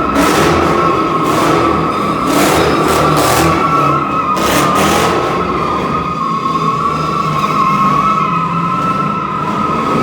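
Car tires squealing continuously as a car does a burnout or donuts, a steady high screech that wavers slightly, over the engine's rumble.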